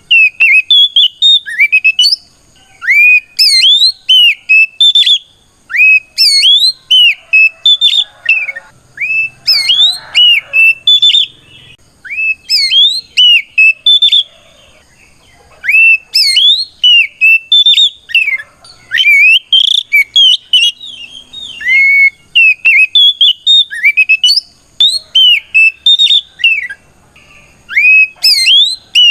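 Oriental magpie-robin (kacer) singing loud, rapid whistled phrases of rising and falling notes, in bursts broken by short pauses. It is a full, ringing challenge song, calling out to a rival.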